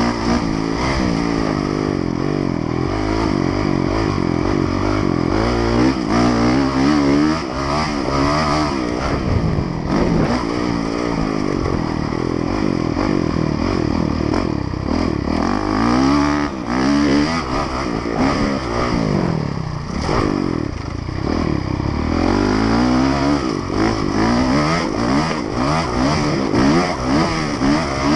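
Honda motocross bike's engine heard from on board, revving hard and falling back again and again as the rider shifts and brakes round the dirt track.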